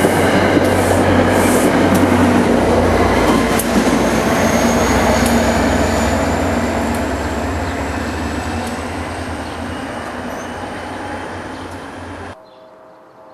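NJ Transit commuter train with a GP40PH-2 diesel locomotive passing close by: Comet coaches rolling on the rails over the low run of the diesel engine, with a faint high whine that slowly rises in pitch. The sound fades steadily as the train moves off and cuts off suddenly near the end.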